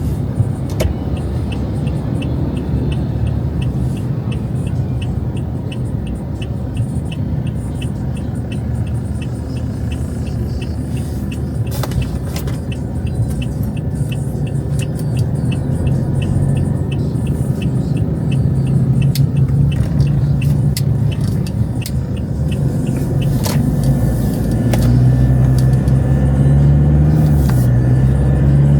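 Road traffic: vehicle engines running and passing in a steady low rumble, with a rapid even ticking about three times a second through most of it. Near the end a vehicle engine rises in pitch as it pulls away.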